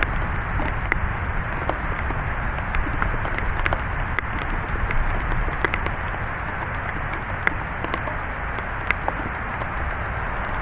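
Thunderstorm rain falling steadily, a continuous hiss with many single drops ticking sharply against nearby surfaces.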